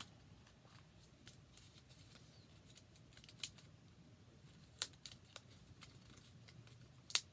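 Faint, scattered clicks and taps of small paper pieces and glue dots being handled while a card is assembled, about five in all, the loudest near the end, over a low steady room hum.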